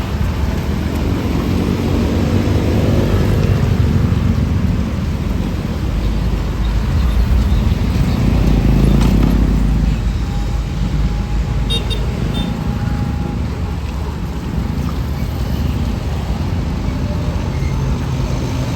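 Heavy road traffic: large vehicle engines running and passing close by, the loudest pass about nine seconds in.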